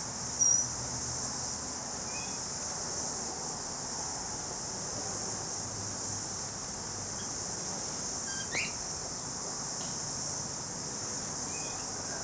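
Steady high-pitched drone of a chorus of insects, with a few short, faint bird chirps scattered through it.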